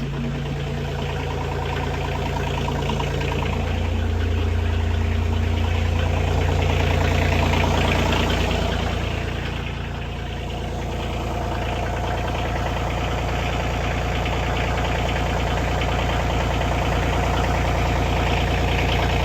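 Kioti CK2610's three-cylinder diesel engine idling steadily while warming up after a cold start at −27 °C; it grows somewhat louder over the first several seconds and dips briefly about ten seconds in.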